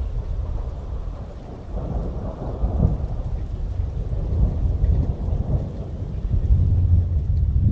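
Rolling thunder rumbling deep and low, building in waves and loudest near the end, over steady heavy rain.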